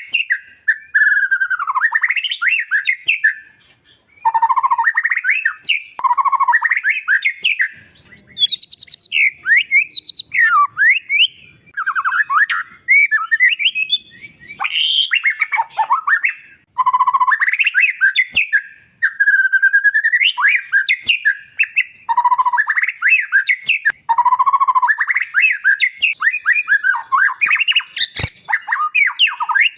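White-rumped shama (murai batu) singing loudly: runs of varied whistled phrases, fast gliding notes and chattering trills, broken by short pauses every few seconds.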